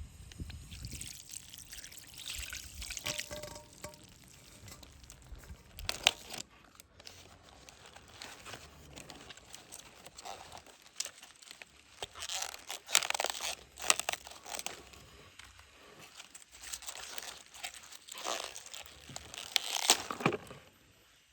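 Water pouring and splashing in irregular bursts, with sharp clicks and knocks of handling.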